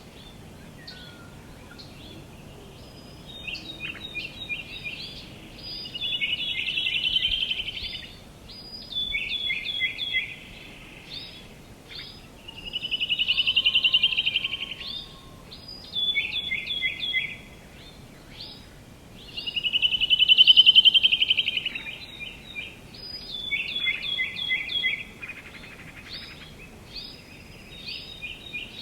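Songbird singing: short chirped phrases, and about every seven seconds a rapid trill that swells and then fades, over a faint steady outdoor background.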